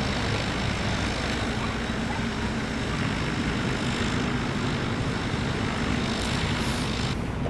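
Low, steady engine drone with a loud rushing hiss over it; the hiss cuts off abruptly near the end while the drone carries on.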